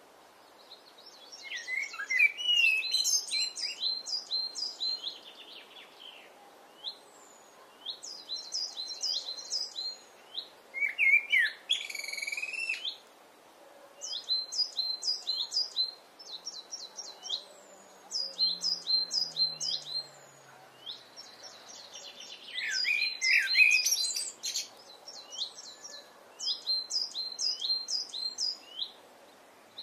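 Eurasian blackbird singing: three fluty, warbled phrases that end in very high twittering, about two, eleven and twenty-three seconds in. Between them come repeated runs of quick, high chirps, several a second in bursts of one to two seconds, over a faint steady background hum.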